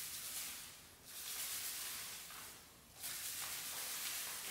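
A sprayer hissing out a salt-and-vinegar solution onto a copper stem in long sprays. One spray ends about a second in, then two more follow, each about two seconds long.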